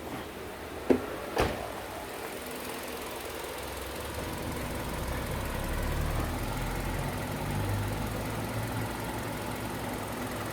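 Hyundai Sonata LPi engine idling, with two sharp clicks about a second in. From about four seconds in a lower, steady hum comes in and the engine sound grows a little as the air-conditioning load comes on.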